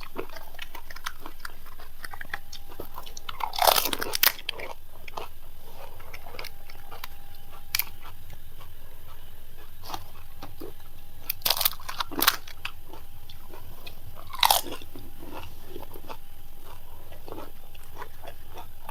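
Crisp panipuri (fuchka) shells crunching as they are bitten and chewed: a handful of sharp crunches, the loudest clusters about four seconds in and around twelve seconds in, with quieter chewing between.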